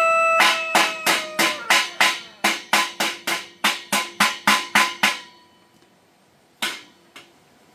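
A hammer striking metal about sixteen times in a steady rhythm, roughly three blows a second, each blow ringing, then stopping, with one more knock a second and a half later. A rooster's crow trails off at the start.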